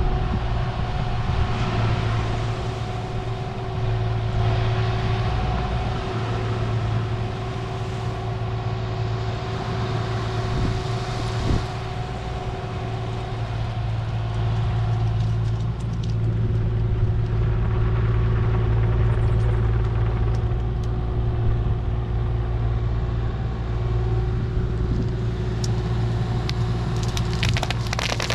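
Diesel engine of a compact construction machine running steadily, a constant low hum with a steady higher whine over it, and some rising and falling noise.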